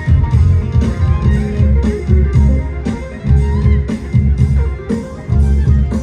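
Live band music played loud through a stage sound system: electric guitar over heavy bass and a steady beat of about two hits a second.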